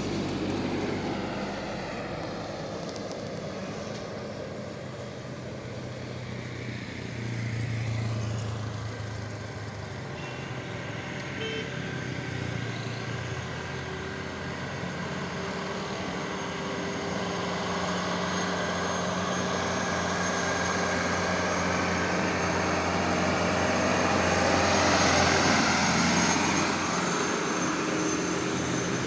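Engines of sugarcane-laden trucks running as they pass on the road, a steady engine hum with road noise that grows louder near the end.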